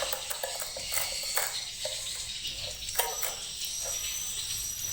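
Edible-nest swiftlets calling inside a swiftlet house: irregular sharp clicks and short chirps over a steady high hiss.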